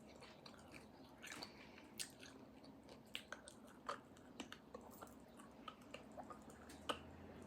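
Faint close-up chewing of soft, fatty bone marrow, with scattered wet mouth clicks and lip smacks.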